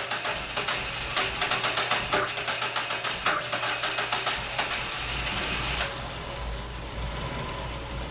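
Starter cranking the Mazda Miata NB2's 1.8-litre four-cylinder engine with a quick, even rhythm. About five seconds in, the engine catches and settles into a steady idle: a cold start with the VVT connected.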